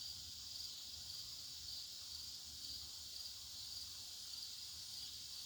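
Faint, steady high-pitched drone with a slight waver, over a low hum: background sound in a pause between remarks.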